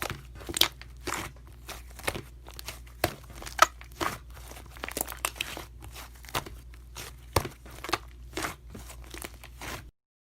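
Irregular crinkling and crackling, many short sharp crackles at an uneven pace, that cuts off abruptly shortly before the end.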